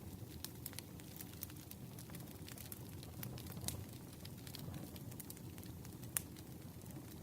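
Wood bonfire crackling: scattered sharp snaps and pops from the burning logs over a low steady rumble of the flames, with one louder pop about six seconds in.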